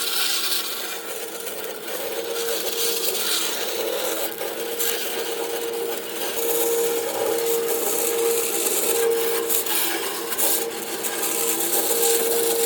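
A power tool working wood: a steady motor whine under an abrasive hiss that swells and eases several times as the tool bears on the wood.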